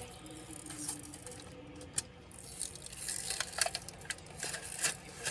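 Small laptop parts and tools being handled: a sharp click about two seconds in, then a run of light clicks and taps over a scraping, rustling hiss from about three seconds on.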